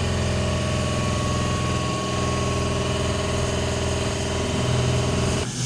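Electric suburban train's motors and equipment humming steadily, several steady tones over a low hum, cutting off abruptly near the end.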